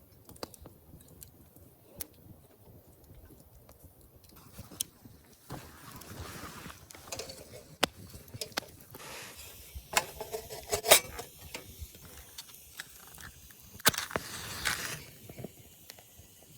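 Camp gear being handled: scattered clicks and knocks with rustling, and a denser metallic clatter about ten seconds in and again near the end.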